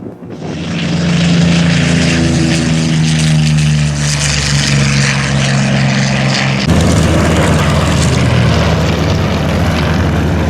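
Piston-engined propeller warbird flying low past the crowd, its engine note sliding steadily down in pitch as it goes by. About two-thirds of the way through, the sound changes abruptly to another steady engine drone.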